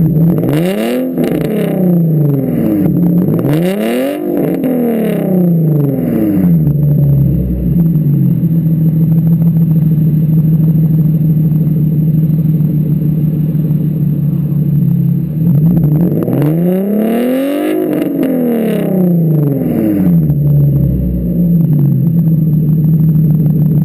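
Nissan 350Z's 3.5-litre VQ35HR V6 through a decatted, straight-piped Borla exhaust, blipped up and down a few times, settling into a steady idle, then revved twice more and dropping back to idle near the end.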